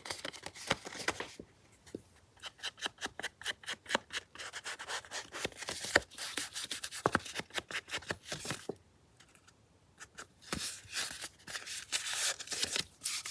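Scratchy rubbing on paper in quick repeated strokes, coming in bursts with a short pause about nine seconds in.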